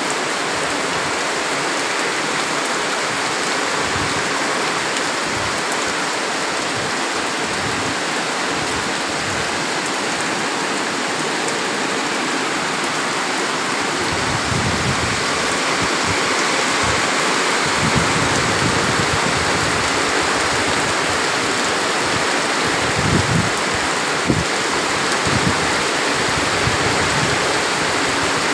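Heavy rain pouring down in a steady, even hiss. Short low thuds and surges come and go in the second half.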